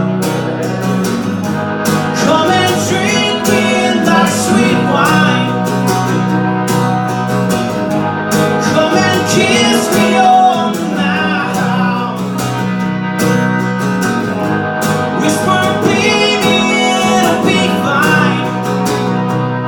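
Live band music in a country-folk style: guitar chords under a melodic lead line that glides in pitch in phrases every several seconds, during a break between the song's verses.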